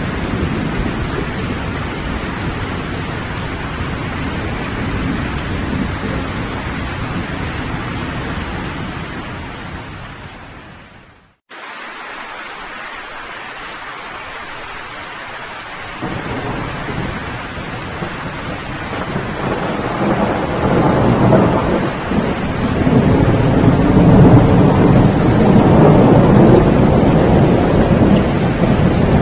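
Steady rain with thunder. About eleven seconds in, the rain fades out to a moment of silence, then starts again quieter, like the splice of a looped track. Low thunder rumbles build and grow louder through the last several seconds.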